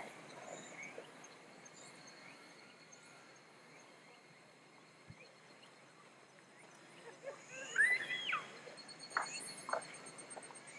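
Garden ambience: a faint steady high trilling of insects runs throughout. About eight seconds in, a bird gives a quick burst of sweeping chirps, followed by a few short sharp calls.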